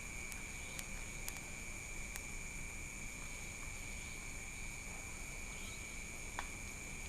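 Night-time insect chorus: several insects, such as crickets, trilling steadily at a few different high pitches. A few faint, sharp clicks sound over it, one a little before the end.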